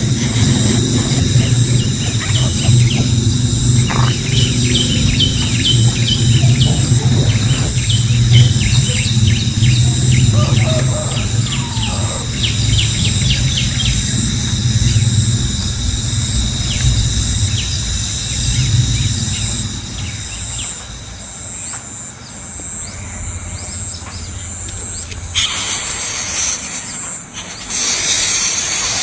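Rapid series of short, high bird chirps over a steady high-pitched insect drone and a low rumble. The chirping thins out after about two-thirds of the way, and a brief rustling burst comes near the end.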